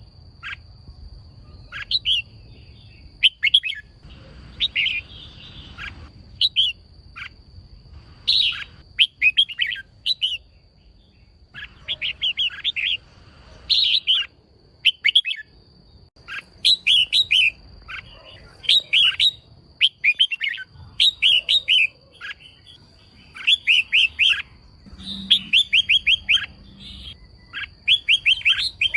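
Female red-whiskered bulbul calling in rapid clusters of short, sharp chirps and trills, repeated over and over. This is the kind of call used to excite male bulbuls. A faint steady high-pitched tone runs underneath.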